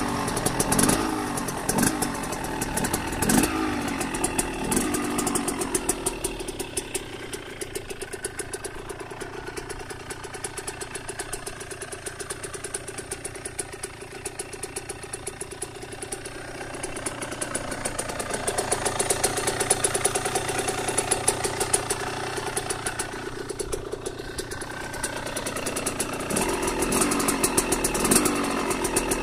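KTM 125 SX single-cylinder two-stroke engine running on its first start after a rebuild. It is blipped several times at first, settles to a steady idle, is revved up again, and is blipped again near the end.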